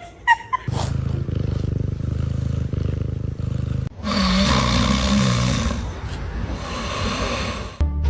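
Domestic cat purring loudly, a fast, even rumble, in two stretches split by a brief break about four seconds in; the second stretch is noisier and more breathy.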